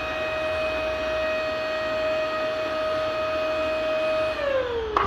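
Vacuum cleaner motor running with a steady high whine over a rushing airflow noise. About four seconds in the whine slides down in pitch as the motor slows, then snaps back to full speed just before the end.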